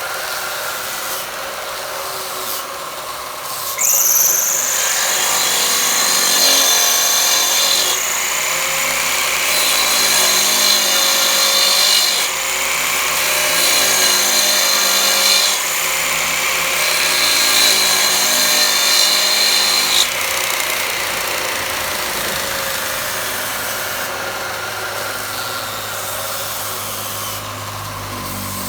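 Power tool working wood. A high whine starts suddenly about four seconds in and comes in several stretches until about two-thirds of the way through. A steady rasping noise of wood being worked runs before and after it.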